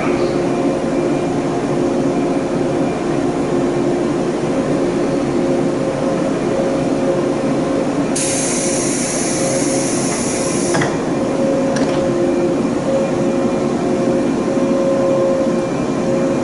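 A stationary 485-series electric train hums steadily, its on-board machinery holding two steady tones. About eight seconds in, a loud hiss of air starts suddenly and stops after nearly three seconds, followed shortly by a single click.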